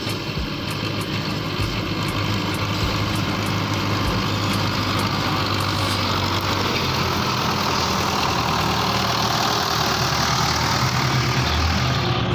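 Tractor engine running steadily under a broad rushing noise that grows stronger about halfway through.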